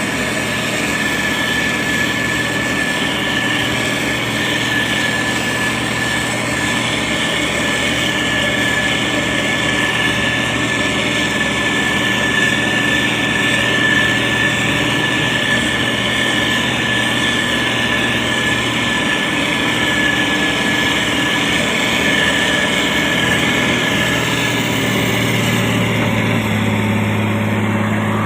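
Motor grader's diesel engine running steadily under work, with a steady high whine over it; the low engine note shifts slightly near the end.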